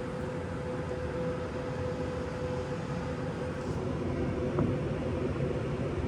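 Heat pump unit on a Hoffman weatherized enclosure running in heating mode, its compressor and fan making a steady hum with a steady tone through it.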